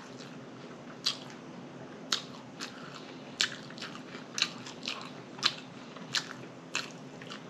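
Close-miked eating sounds: a person chewing food with wet lip smacks and mouth clicks about once a second.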